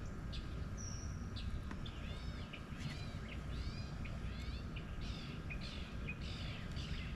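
A songbird singing a run of quick, repeated arching chirps, about two a second, starting a couple of seconds in after two short high whistles, over a steady low outdoor rumble.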